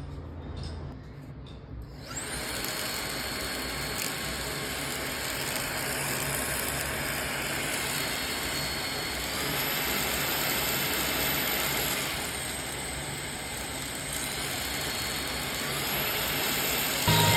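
Makita CL200FDZ cordless vacuum cleaner switched on about two seconds in and running steadily, with a high motor whine that shifts pitch a few times.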